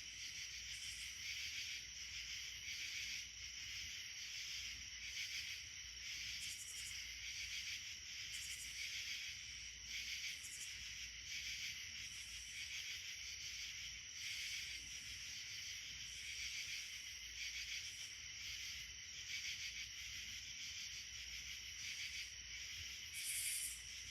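Insect chorus: a steady high-pitched buzzing trill that swells about once a second, with short higher-pitched buzzes now and then and a louder one near the end.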